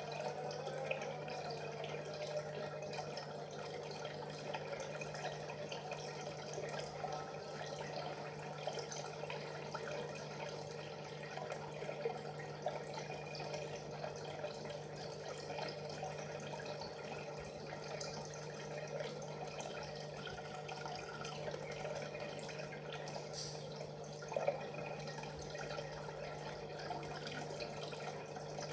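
Water trickling and dripping with a steady low hum underneath, and a brief louder splash or tick about 24 seconds in.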